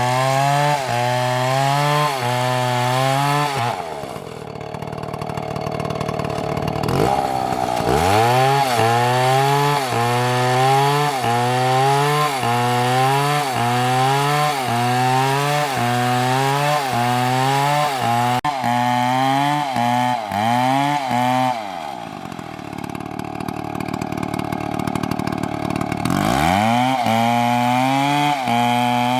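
Chainsaw cutting at full throttle, its engine pitch wavering in a steady rhythm. Twice it drops back toward idle for a few seconds and then revs up again.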